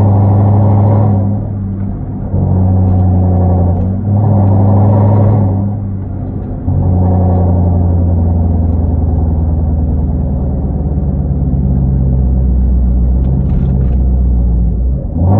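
Hyundai Genesis 5.0 sedan's V8 running through a straight-piped 2.5-inch exhaust with Flowmaster Super 10 mufflers and no catalytic converters. It swells louder three times in the first few seconds with dips between, then holds a steady low drone, and rises again right at the end.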